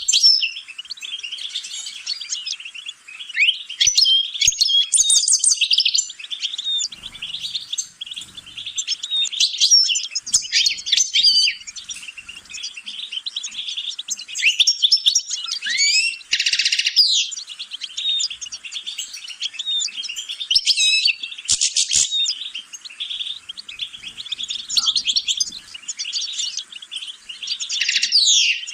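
European goldfinch singing: a continuous run of rapid twittering trills and chirps, broken by a couple of short, harsh, buzzy notes, one about halfway through and another some five seconds later.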